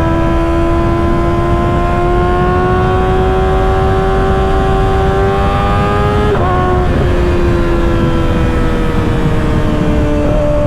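Kawasaki Ninja ZX-6R 636's inline-four engine running under way through an aftermarket M4 exhaust, its pitch slowly rising, then dropping abruptly with a gear change about six seconds in and easing down after. Wind rumbles over the microphone throughout.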